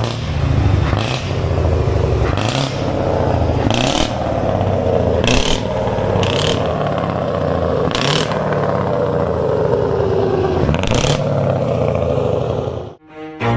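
Scania 164L 580 V8 truck engine running loud with a shifting, revving note, broken by several short hisses.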